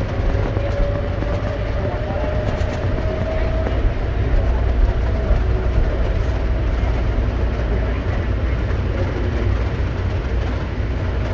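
Interior of a moving Bombardier CX-100 automated people mover car: a steady low rumble of the rubber-tyred car on its guideway, with a motor whine slowly rising in pitch over the first few seconds.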